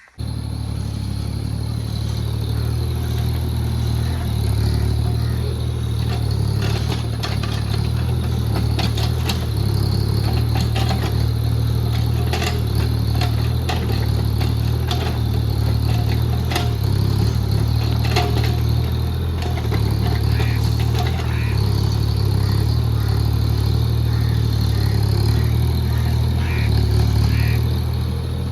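JCB JS30 Plus mini excavator's engine running steadily while digging and levelling soil, with scattered knocks and clatter throughout.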